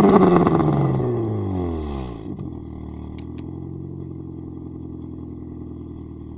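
VAZ 2109's 1.5-litre 16-valve engine exhaling through a ProSport straight-through muffler, revs dropping back after a blip of the throttle and then settling into a steady idle.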